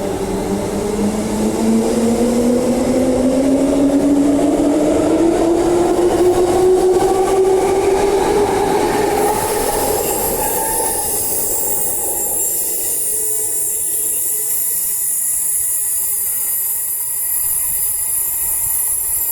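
Perth suburban electric train accelerating away from the platform, its traction motor whine rising steadily in pitch over about ten seconds, then giving way to a high hiss with thin high tones as it recedes.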